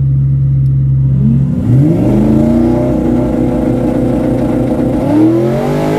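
Twin-turbo 5.0 Coyote V8 F-150 drag truck making a drag pass: the engine holds steady revs on the line, then launches about a second and a half in with its pitch climbing, and climbs again about five seconds in.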